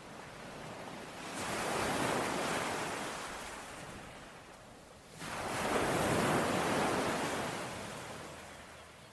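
Ocean waves breaking on a shore, two in turn: the first swells up and washes out slowly, and the second crashes in suddenly about five seconds in, then recedes.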